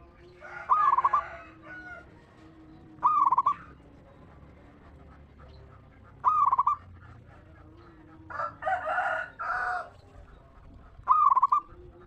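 Birds calling: a short, loud call repeats roughly every three seconds, four times in all, with a longer, harsher run of calls about two-thirds of the way through.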